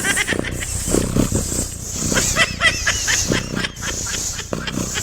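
Animal calls: many short, quick calls in rapid succession, mixed with knocks and noise.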